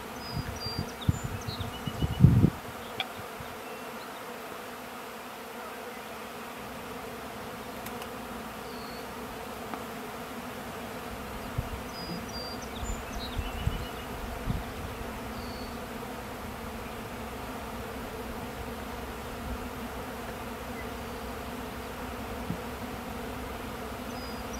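A swarm of honey bees buzzing as a steady, dense hum. A few low thumps come in the first couple of seconds, the loudest about two seconds in.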